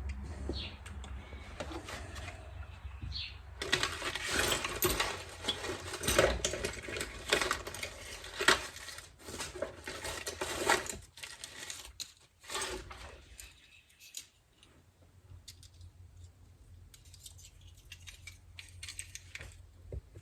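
Small metal carburetor parts and tools clinking and rattling as they are handled, with a busy run of clicks for several seconds from about four seconds in, then only sparse faint ticks.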